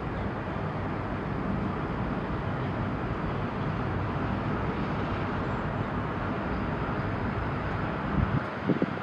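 Steady low engine drone with outdoor harbour noise. A few gusts of wind buffet the microphone near the end.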